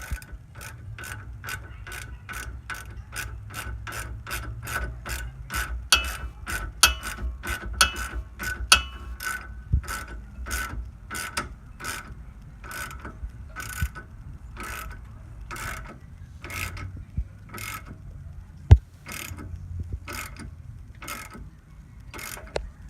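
Hand ratchet clicking in a steady rhythm as the nut on a sway bar link bolt is tightened, about two to three clicks a second, slowing in the second half. A single sharp knock stands out about three quarters of the way in.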